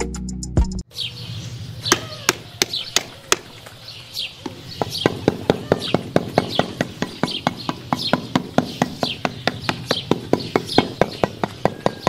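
Small steel trowel tapping on a cement surface, sparse sharp taps at first and then about four a second, while a bird chirps repeatedly in short falling calls. Music cuts off about a second in.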